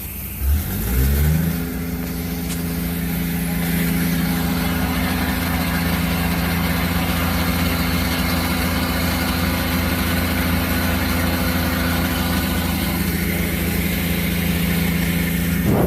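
An engine starting up about half a second in, its pitch rising for about a second, then running steadily at a constant speed.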